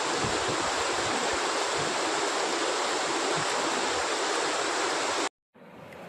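Waterfall rushing steadily, a dense wash of falling water that cuts off abruptly about five seconds in, leaving only a faint hiss.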